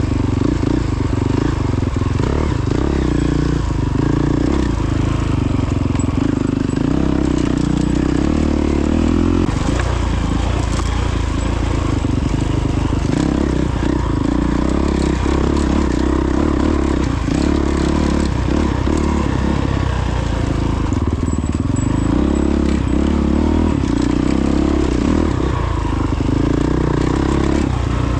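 2022 Honda CRF450X dirt bike's 450 cc single-cylinder four-stroke engine running while riding off-road, its pitch rising and falling with the throttle every few seconds. Short knocks and rattles are scattered through it.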